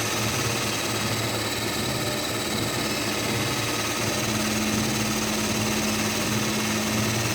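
Treadmill motor and belt running together with a toy RC car's small electric motor whirring on the belt: a steady mechanical hum, with a higher steady tone joining about four seconds in.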